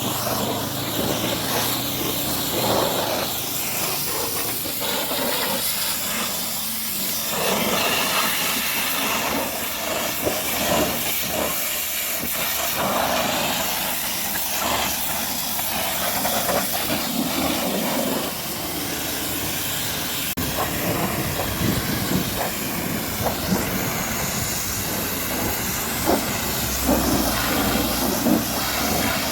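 Pressure-washer jet hissing steadily as water sprays against a truck.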